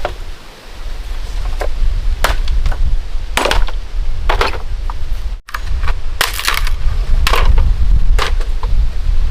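Repeated chopping blows, roughly one a second and irregular, over a steady low rumble.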